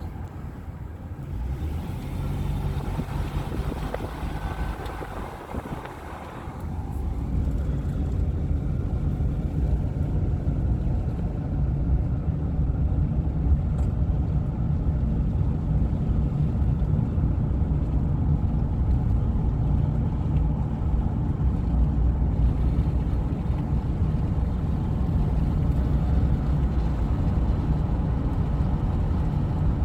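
A car driving, heard from inside: steady low road and engine rumble that grows louder about seven seconds in and then holds.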